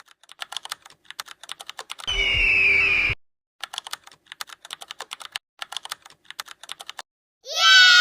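Quick computer keyboard typing clicks. About two seconds in they stop for a loud, noisy sound with a high tone lasting about a second, and near the end a loud sound falling in pitch cuts in.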